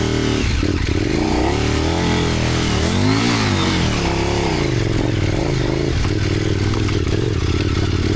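Motorcycle engine running under throttle on a dirt trail. The revs rise and fall several times, climbing to a peak about three seconds in, then settle to a steadier run.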